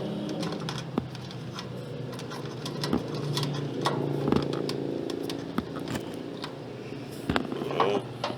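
Irregular clicks and taps of tools and metal parts being handled during wiring work on an AC condenser, over a steady low mechanical hum.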